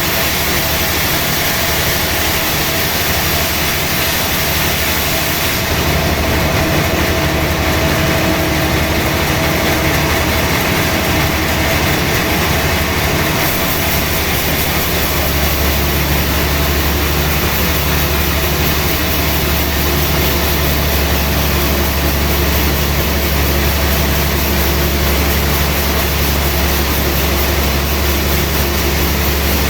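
Sawmill machinery running steadily with a continuous hum and rushing noise; the low hum grows heavier about halfway through.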